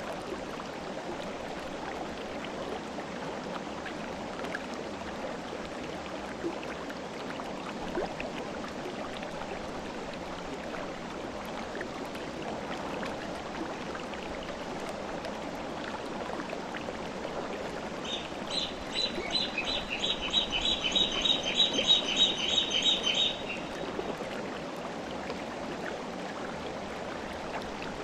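River water flowing steadily. Past the middle, a bird sings a quick run of high repeated notes for about five seconds, louder than the water.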